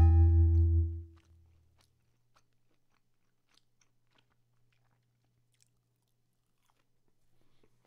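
A chord of mallet-percussion music rings on and fades out about a second in. Then faint chewing of hangikjöt, Icelandic smoked lamb, with sparse small clicks of the mouth.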